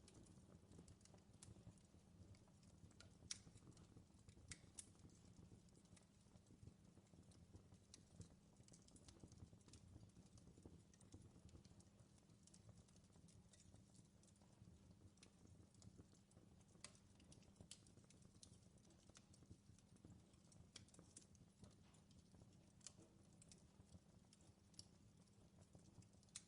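Wood fire in a fireplace crackling faintly: scattered, irregular sharp pops and snaps over a low steady rumble.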